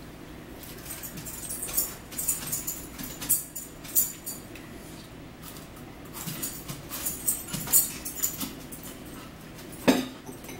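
Close-up chewing and crunching of toasted garlic bread, in bursts of crisp crackles, with one sharp knock of cutlery or dishware near the end.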